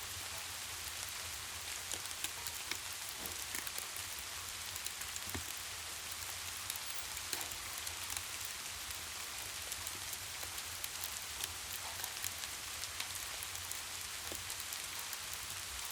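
Steady rain falling, an even hiss with many small sharp ticks scattered throughout and a low steady rumble underneath.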